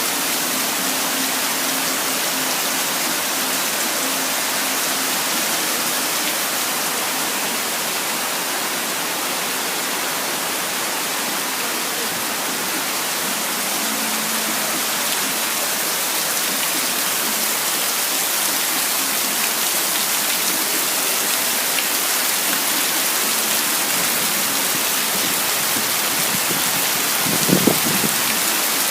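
Rain falling steadily, an even hiss of rain on surfaces. A brief low knock sounds near the end.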